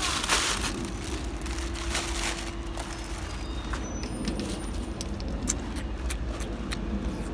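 A car engine running with a steady hum and low rumble, over scattered light clicks and rattles of bottles and a metal shopping trolley being handled.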